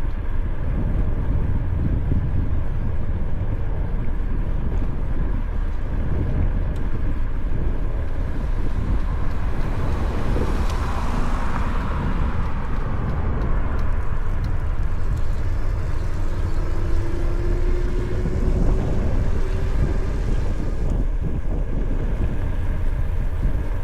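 Steady wind rumble and tyre noise from a Mokwheel Granite electric trike riding along, picked up by an action camera's onboard microphones. A faint rising whine comes in about two-thirds of the way through.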